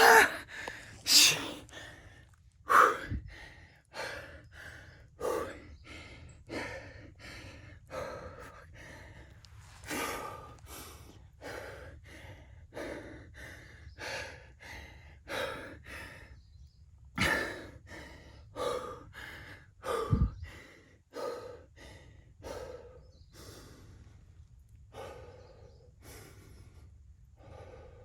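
A person breathing hard and fast, about one to two breaths a second, with a few louder gasps. This is panting from exertion.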